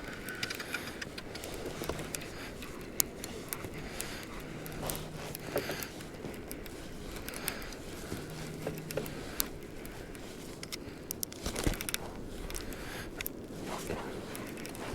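Scattered clicks, taps and scrapes of fishing gear being handled on a kayak, over a steady low hiss.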